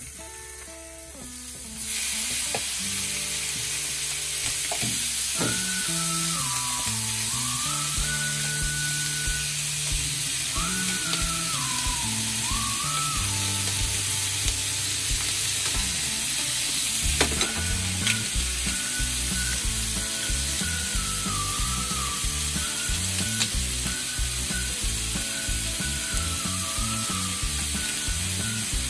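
Raw chicken skin sizzling as it fries in a dry nonstick frying pan with no oil added, while the pieces are moved about with wooden chopsticks. The sizzle comes up about two seconds in and then holds steady.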